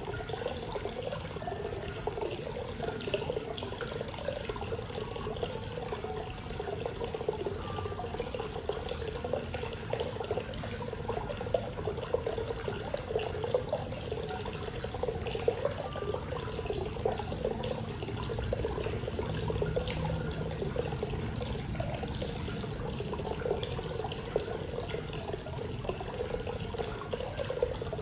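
Hot spring water pouring steadily into an outdoor bath, an even, unbroken splashing.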